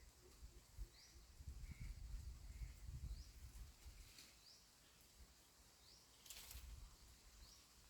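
Faint wind gusting on the microphone as a low rumble, while a small bird repeats a short, high, rising chirp about once a second; a brief hiss comes about six seconds in.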